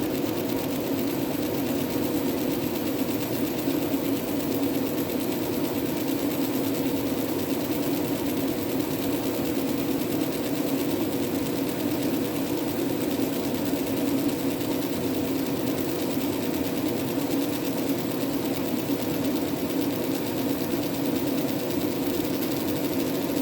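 Fiber laser engraving machine running as it marks, a steady buzzing hum without a break.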